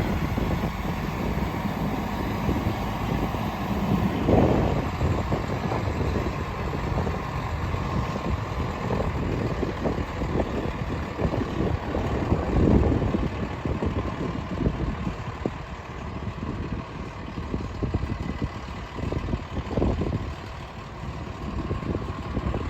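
Diesel engine of a Freightliner M2 106 Plus vacuum truck idling steadily, with a couple of brief louder surges in the rumble.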